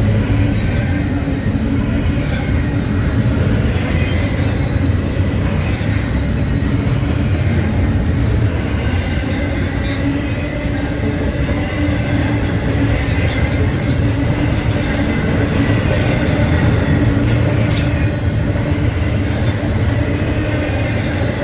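A train rolling past close by: a loud, steady rumble of steel wheels on rail that keeps going without a break, with a brief high screech about three-quarters of the way through.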